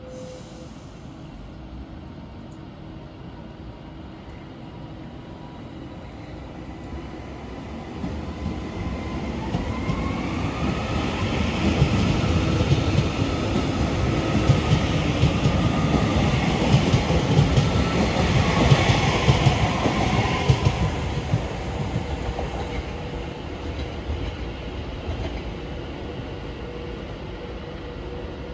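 TransPennine Express Class 397 electric multiple unit running past along the near platform: a rumble of wheels on the rails with clickety-clack that builds, is loudest around the middle and fades over the last third, with a whine that rises and then falls in pitch.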